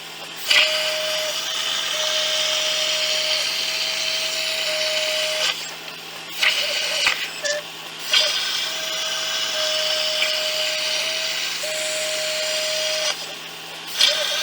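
Plasma cutter burning through steel plate: two long runs of steady hiss with a steady hum under it, each about five seconds long, starting abruptly, with a pause of a couple of seconds between them.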